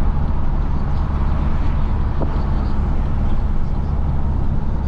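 Isuzu FRR90 truck's diesel engine running steadily under way, a constant low drone.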